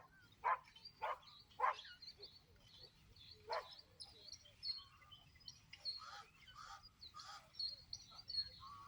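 Mixed wetland birds calling: several louder short calls in the first few seconds over continual high-pitched chirping of small birds.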